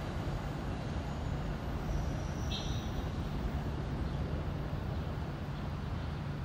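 NJ Transit train, an ALP-46A electric locomotive pulling Comet coaches, pulls away with a steady low rumble. A short high-pitched chirp comes about two and a half seconds in.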